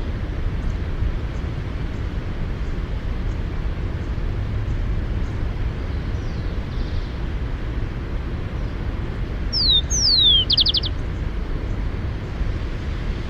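Rufous-collared sparrow singing once, about ten seconds in: two clear descending whistles followed by a short rapid trill. A steady low rumble runs underneath.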